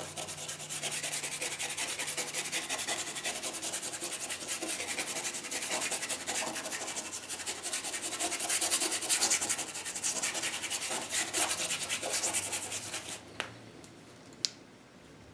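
Bristle brush scrubbing rapidly back and forth on canvas, blending acrylic paint: a dense, scratchy rubbing that stops about two seconds before the end, followed by a couple of light taps.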